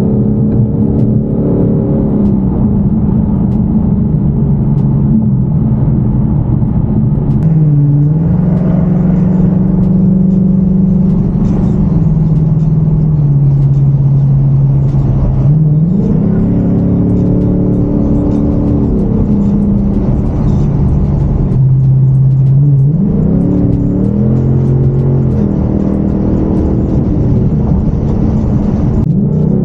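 Car engine droning inside the cabin at highway speed over steady road noise. Its pitch holds steady for stretches, then dips and climbs again as the car eases off and speeds up.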